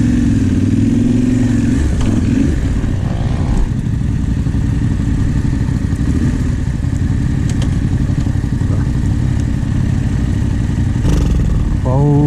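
Rally motorcycle engines running steadily at a stage start. A man's exclaimed voice starts near the end.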